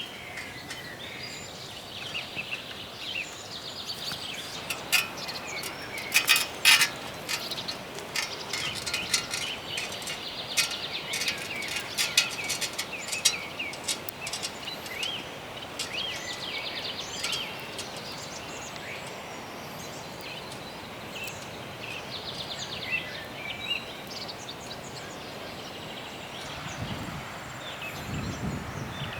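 Birds chirping over steady outdoor background noise, with a run of sharp clicks about six seconds in and again a few seconds later.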